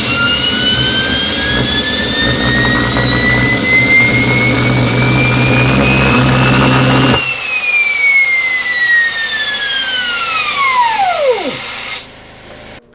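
Homemade propane-fired turbocharger jet engine running, its turbine whine climbing steadily in pitch over a loud combustion rumble. About seven seconds in, the rumble cuts off suddenly and the whine falls away as the turbo spins down over about four seconds.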